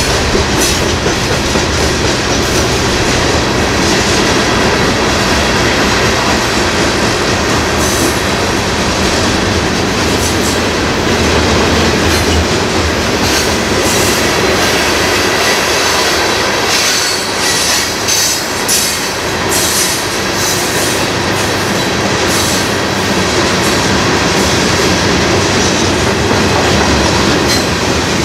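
A freight train's hopper cars and boxcars rolling past close by. Steel wheels on rail make a steady, loud rumble, with repeated clacks as the wheels cross rail joints.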